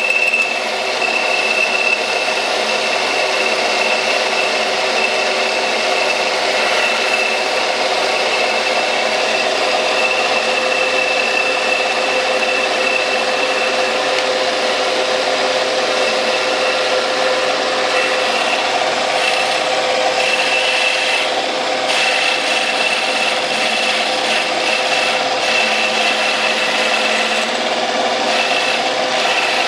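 Metal lathe running under cut, its tool turning a taper on the workpiece: a steady cutting hiss with a faint constant whine.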